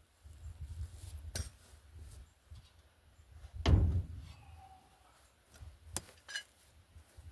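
Steel front-suspension parts being struck: sharp metallic clanks about two seconds apart, the loudest a little past the middle, followed by a brief metallic ring.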